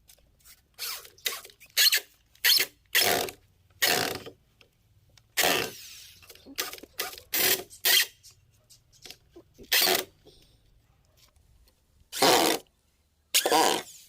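A series of about a dozen short, irregular rasping bursts with quiet gaps between them, from tool or handling work on the cage.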